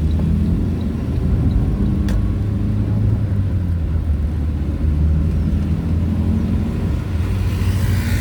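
Vehicle engine and road noise while driving: a steady low drone, with a short click about two seconds in and a swelling hiss near the end.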